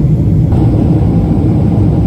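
Jet airliner during take-off, heard from inside the cabin: a loud, steady low rumble of engines and airflow, its tone shifting slightly about half a second in.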